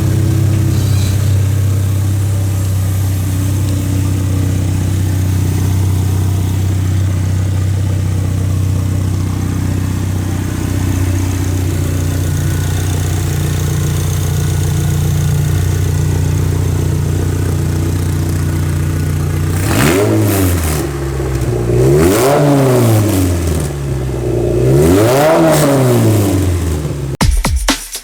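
2.4L Ecotec inline-four engine of a street rail buggy idling steadily, then revved three times near the end, each rev rising and falling in pitch.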